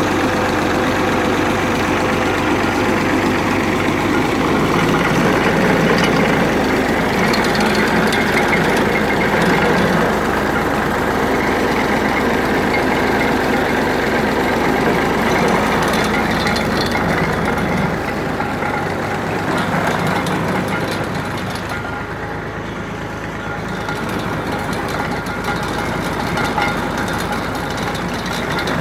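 Massey Ferguson 240 tractor's three-cylinder diesel engine running steadily. It grows a little quieter for a few seconds past the middle, then comes back up.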